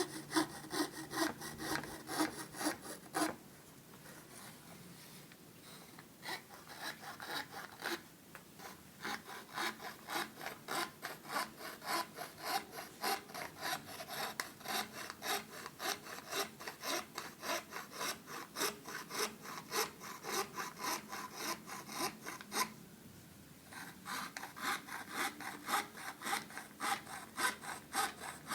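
Hand saw cutting through plywood in quick back-and-forth strokes, about two to three a second, stopping briefly twice.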